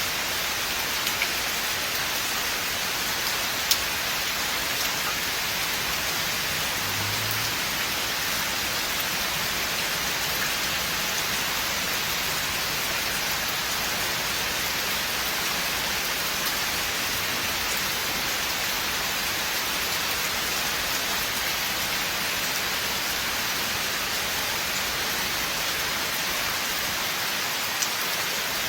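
Steady rain falling through a forest, an even hiss of drops on leaves and ground, with a few sharper single drops now and then.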